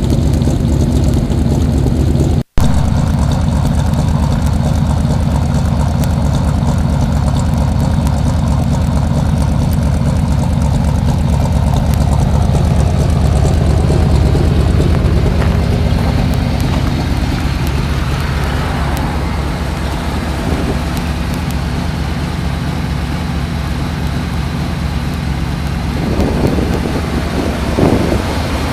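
1995 Chevrolet Suburban's engine running cold, just after a cold start at about 20 degrees, idling rough. The owner says it runs funny when cold and sounds as if it had a cam in it. The sound cuts out for an instant about two and a half seconds in.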